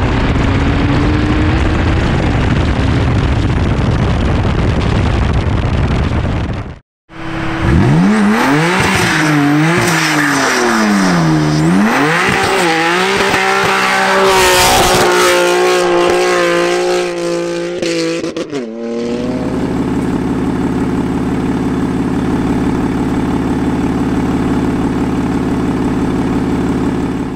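About seven seconds of loud steady rushing noise from the moving car, then, after a brief drop-out, a BMW M3 F80's straight-piped twin-turbo straight-six revving up and down again and again while spinning the rear tyres in a smoky burnout. It settles into a steady idle for the last several seconds.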